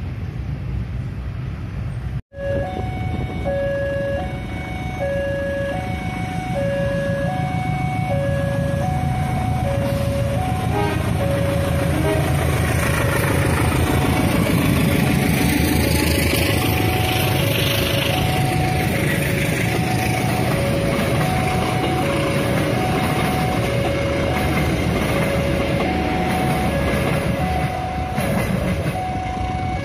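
A level-crossing warning alarm sounds a two-tone signal, alternating high and low about every two-thirds of a second throughout. A diesel-electric locomotive hauling passenger coaches passes close by, and the rumble of its engine and wheels grows loud from about twelve seconds in.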